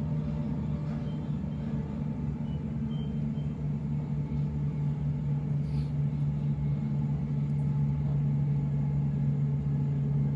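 Cabin noise of a Sydney Trains Waratah B-set electric train running between stations: a steady low rumble with a constant hum, growing slightly louder toward the end.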